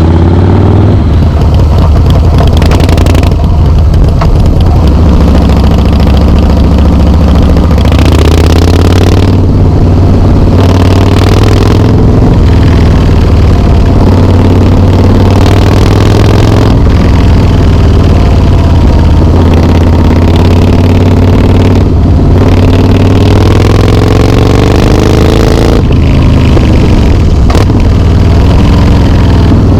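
Harley-Davidson Softail Slim S 1800 cc V-twin running loud through Vance and Hines slip-on mufflers. It idles with a deep, steady exhaust note and is revved about every four to five seconds, the pitch rising and falling back with each blip of the throttle.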